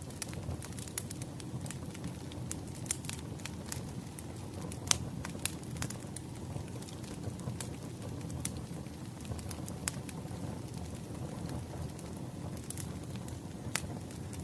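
Wood fire crackling: irregular pops and snaps over a steady low rumble of burning logs, with one louder pop about five seconds in.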